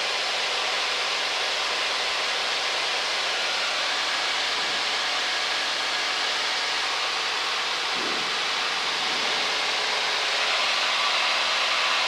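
Steady cabin noise of a Cessna 172 XP in cruise flight: the engine and propeller drone as an even, hiss-like rush with no change in power.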